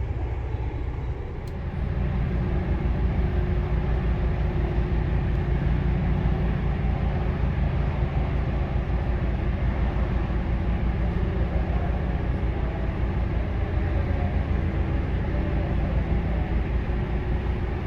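Narrowboat's diesel engine running steadily under way inside a canal tunnel, a fast even low beat, dipping briefly about a second in.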